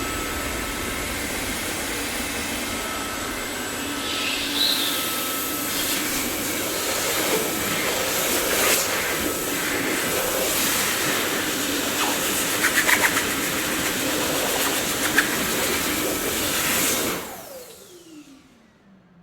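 Dyson vacuum cleaner running with a steady whooshing, with scattered brief clicks and rattles. About 17 seconds in it is switched off and the motor winds down with a falling whine, fading to near silence.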